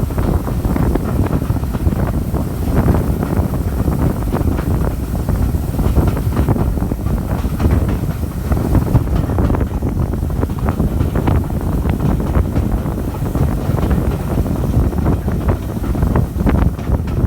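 A train running along the line: steady rumble with irregular knocks and clatter from the wheels and carriage, with wind buffeting the microphone.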